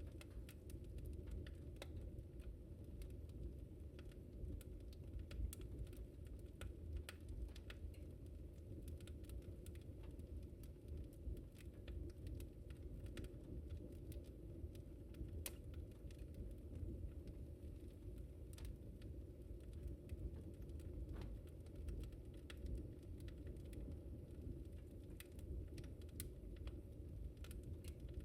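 Wood fire in a fireplace burning steadily: a low rumble of the flames with frequent small irregular crackles and pops.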